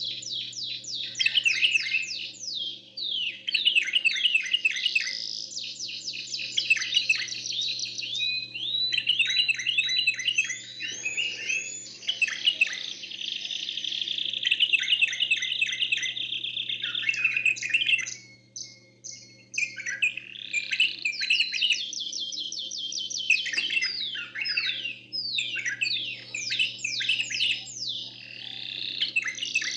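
Bulbul and canary singing against each other in fast trills and rapid runs of repeated high notes, almost without pause, broken briefly about two-thirds of the way through. A steady low hum runs underneath.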